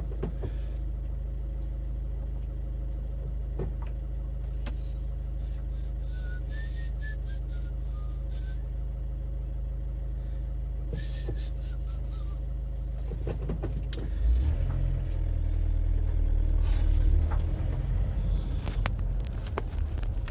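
Car engine idling with a steady low hum, heard from inside the cabin. About two-thirds of the way in it gets louder and rougher as the car pulls away under power. Earlier, a short run of faint high chirps sounds over the hum.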